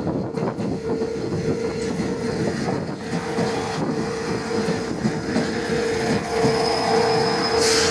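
Diesel railcar running past close by, its engine giving a steady hum under the rumble and clatter of wheels on the rails. A short burst of hiss comes near the end.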